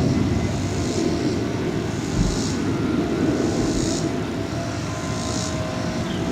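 Airliner passing overhead near the airport, a steady low rumble with a faint whine. A high buzzing swells and fades about every second and a half over it.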